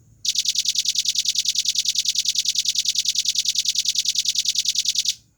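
Velvet-fronted nuthatch (rambatan paruh merah) giving a long, fast trill of high, sharp notes, about a dozen a second, held evenly for nearly five seconds and stopping abruptly near the end.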